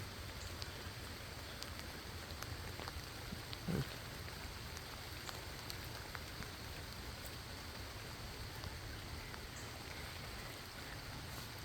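Steady light rain falling, with scattered drops ticking close by. There is a brief low sound about four seconds in.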